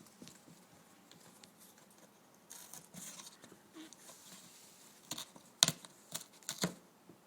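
Umbrella cockatoo chewing and tearing at cardboard: a brief rustle of ripping about a third of the way in, then several sharp crackling snaps in the second half as the beak bites through.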